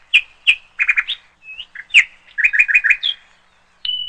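Bird chirping: a quick series of short chirps and rapid trills. Near the end a click, then a steady high beep starts.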